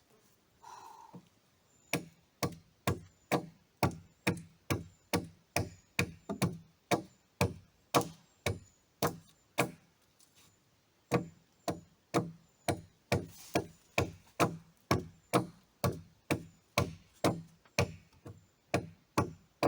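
Axe chopping into wood in rapid, even strokes, about two a second, with a short pause about ten seconds in before the chopping resumes.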